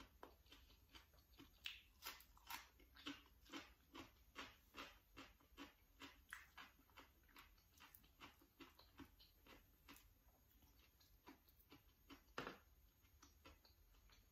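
Faint close-miked chewing: a steady run of small wet mouth clicks about two to three a second, with one louder click near the end.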